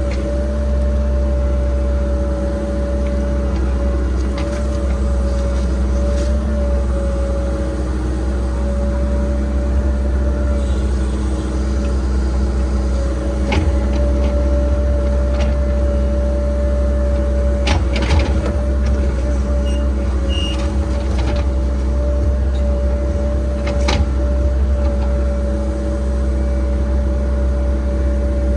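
Cat 306 excavator's diesel engine running steadily at work, with a steady whine over the rumble and a few sharp knocks as the bucket digs.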